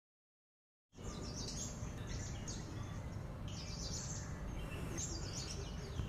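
Wild birds chirping outdoors: a series of short, high calls over a steady background hiss, starting about a second in.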